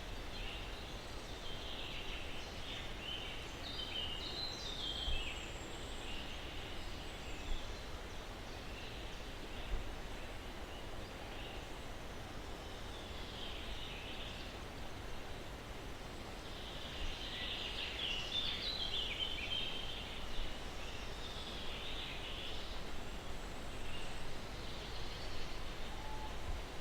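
Birds chirping in short clusters now and then over a steady breeze hiss, as in a pine forest soundscape.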